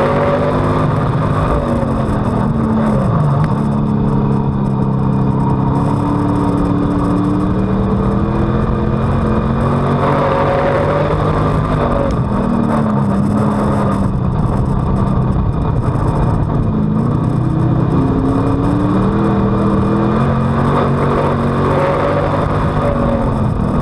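On-board sound of a WISSOTA Street Stock's V8 engine racing around a dirt oval. The pitch drops as the driver lifts for the turns and climbs again back on the throttle, about four times.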